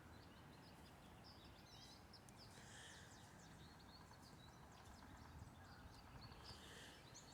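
Faint chirping of small birds at feeders: many short, high chirps scattered throughout, over a low outdoor background hiss.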